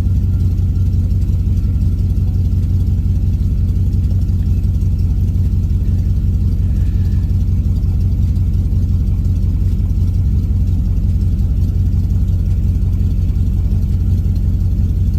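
The swapped-in 5.3 L LS V8 of a 1983 Pontiac Firebird idling steadily.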